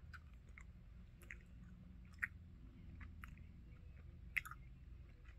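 A person chewing a jelly bean close to the microphone: faint, irregular wet clicks and smacks of the mouth, about a dozen over a few seconds, over a low steady hum.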